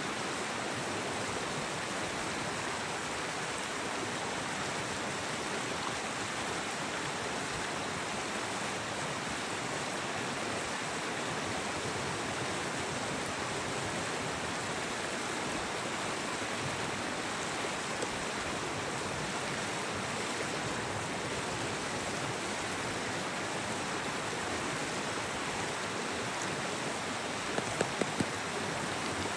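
Steady rushing of a mountain stream, with a few sharp clicks near the end.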